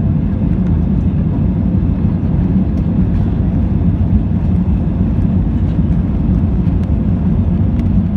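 Steady low rumble of a passenger airplane's engines and airflow.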